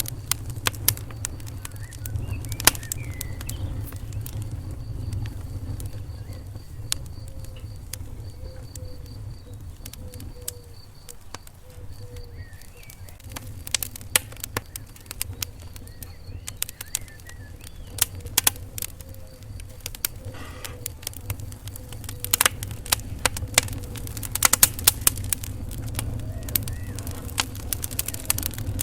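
Wood fire burning in a fireplace: irregular sharp crackles and pops over a steady low rumble of flame, with the pops coming thicker and louder in the last few seconds.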